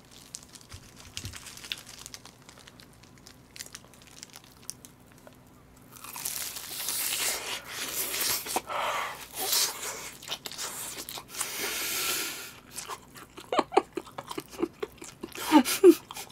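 Close-up biting and chewing of crispy fried chicken. The crunch of the crust starts about six seconds in and runs for several seconds, then gives way to wetter chewing and smacking toward the end.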